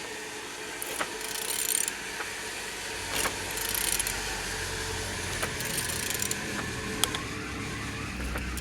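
A VW 1.9 TDI (ASZ) diesel engine being turned over by hand with a wrench, in about three strokes, each with ratchet clicking and the rasp of the turning engine: the engine turns freely.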